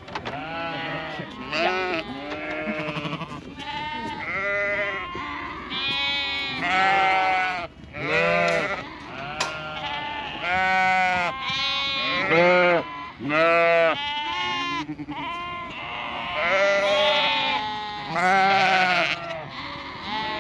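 A flock of sheep, ewes and lambs, bleating over and over, many calls overlapping, as the lambs are separated from their mothers at weaning.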